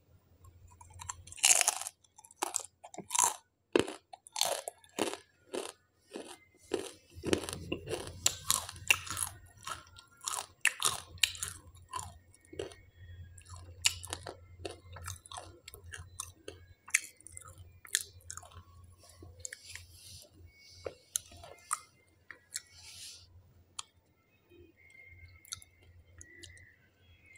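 Close-up crunching and chewing of a Jolo chip, a very spicy tortilla chip. Quick, loud crunches for about the first twelve seconds, then sparser, softer chewing.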